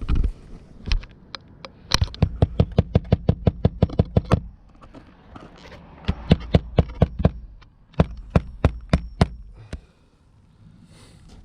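Hammer driving roofing nails through an asphalt shingle: three quick runs of rapid, sharp blows at about six or seven a second, with a few single taps before them.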